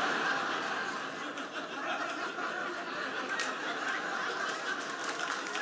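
Live comedy audience laughing, with scattered claps beginning in the second half.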